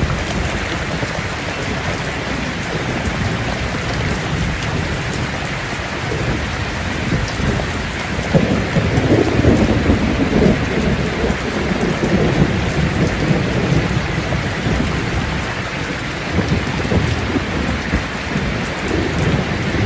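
Steady rain with rolling thunder, the rumble swelling about eight seconds in and fading over a few seconds.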